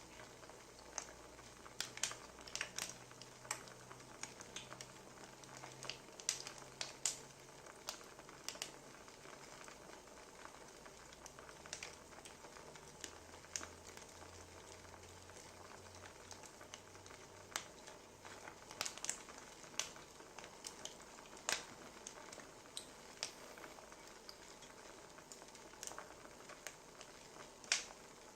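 Wood fire crackling: irregular sharp pops and snaps, several a second at times, over a faint steady hiss of burning logs.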